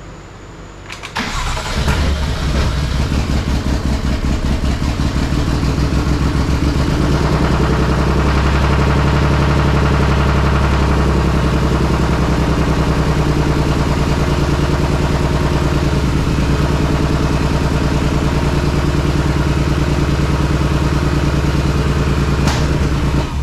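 Built BMW S55 turbocharged inline-six, fitted with an EFR 9280 single turbo, cranking briefly and starting about a second in, then running at a steady idle until it is switched off abruptly near the end.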